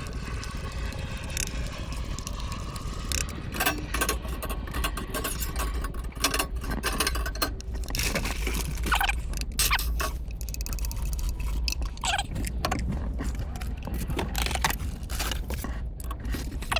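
Utensil scraping and clinking against camp cookware while pancake batter is mixed and handled, with many short sharp clicks over a steady low rumble.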